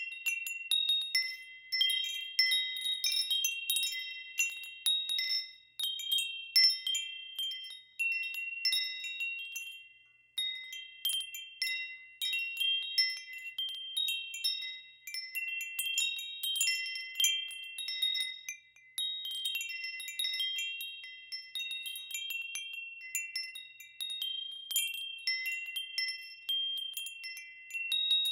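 Wind chimes ringing in irregular clusters as the wind sways them, several high bell-like tones struck one after another and left to ring, with brief lulls between gusts.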